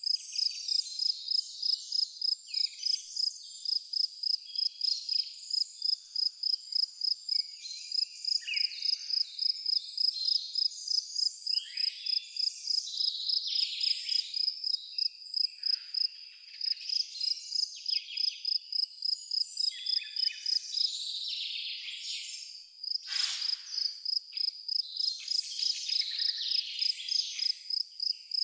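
An insect chirping in a steady, high-pitched pulse of about four chirps a second, pausing briefly about three-quarters of the way through, with scattered bird calls over it.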